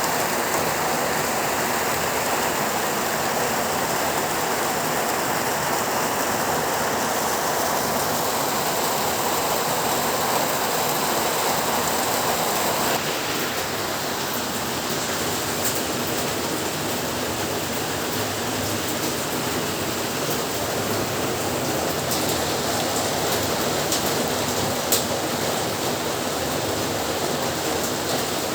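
Heavy rain falling steadily, an even rushing hiss. About halfway through the sound changes suddenly to a slightly softer, less bright hiss, and a few sharper drip ticks stand out near the end.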